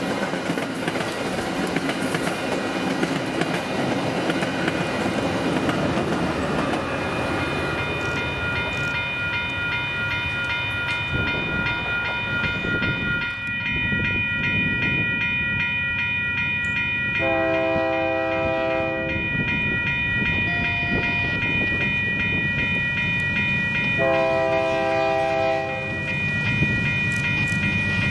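A train running past with a continuous rumble of wheels on rails, joined about a third of the way in by a steady high ringing. The locomotive's horn sounds two long chord blasts, about two seconds each: one past the middle and one near the end.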